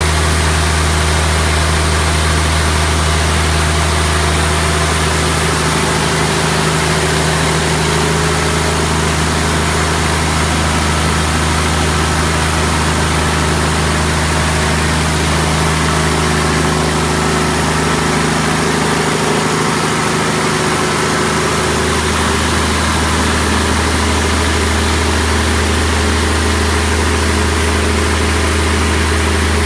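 Caterpillar 3126 inline-six turbo-diesel running at a steady speed on an engine dynamometer, a freshly rebuilt engine under test, with a deep, even drone.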